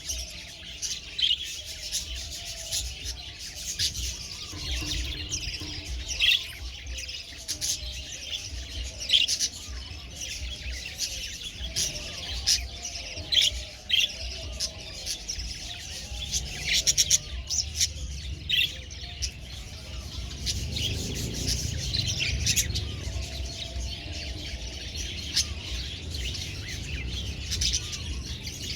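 Budgerigars chirping and chattering, with many short, high chirps overlapping continuously.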